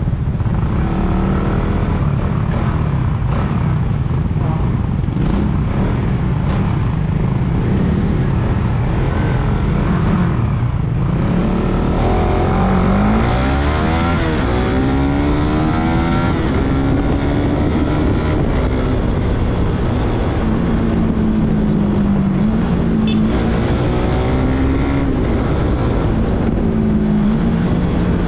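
Suzuki Raider 150 Fi motorcycle's single-cylinder four-stroke engine running under way, over a heavy low wind rush. Its pitch climbs, drops sharply at a gear change about halfway through, climbs again and then holds fairly steady.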